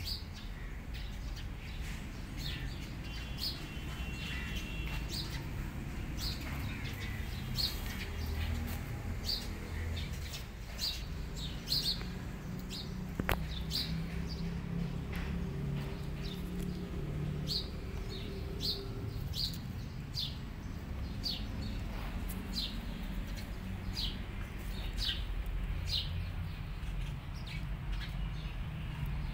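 A bird chirping repeatedly: short, high single chirps about once a second, over a steady low outdoor rumble.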